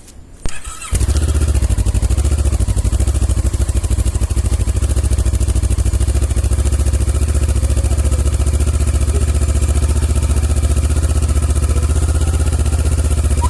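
Kawasaki ER-6n's parallel-twin engine through a Dominator GP I aftermarket slip-on exhaust, starting up about a second in and then idling steadily with a very loud, deep, even beat.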